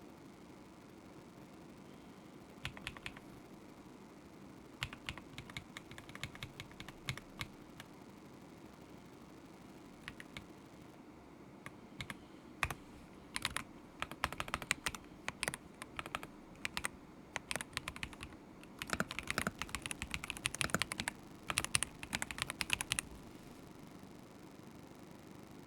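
Typing on a KZZI K75 Pro mechanical keyboard with Moment linear switches, in uneven bursts of rapid key clicks with short pauses between. The typing is quickest and densest in the second half and stops a few seconds before the end.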